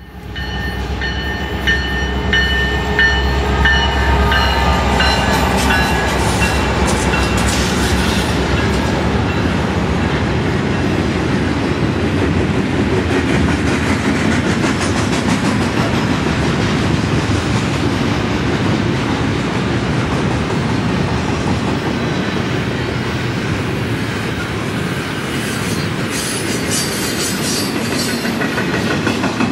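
Intermodal freight train's cars rolling past: a steady rumble and clatter of steel wheels over the rails, with high steady squealing tones over the first several seconds.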